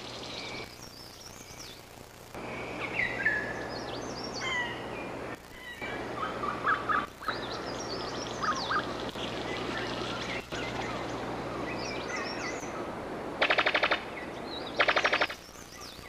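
Forest birds calling: scattered whistles and chirps over a steady forest hiss. Near the end come two loud, very rapid rattles a little over a second apart, the machine-gun call of a brown sicklebill bird of paradise.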